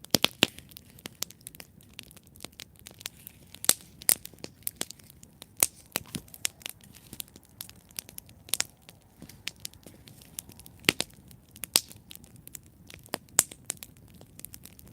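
Wood campfire crackling and popping: sharp, irregular snaps several times a second, some much louder than others, over a soft low hiss of the burning fire.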